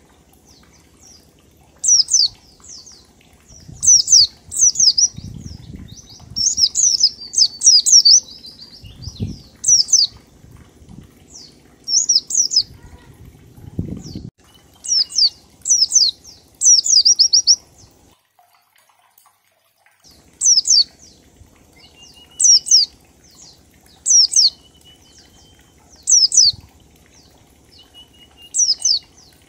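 A pleci (white-eye) sings in the 'ngalas' style: short bursts of rapid, high, falling notes, one phrase every second or two, with a pause of about two seconds midway. Faint lower whistled notes come between some of the phrases.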